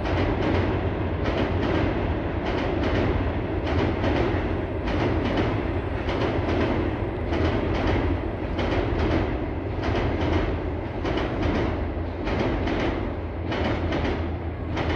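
Train crossing a steel truss railway bridge: a steady heavy rumble with a continuous clickety-clack of wheels over the rail joints.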